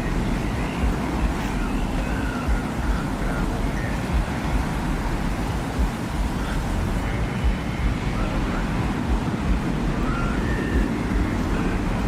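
Designed desert-wind ambience: a steady low rumble of wind with faint, wavering high whistles drifting in and out.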